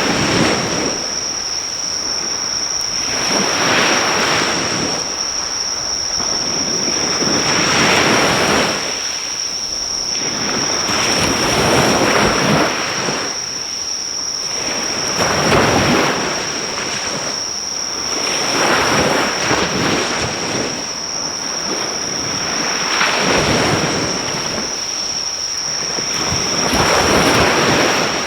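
Sea waves washing onto the shore, swelling and falling back about every four seconds, with a steady high insect trill throughout.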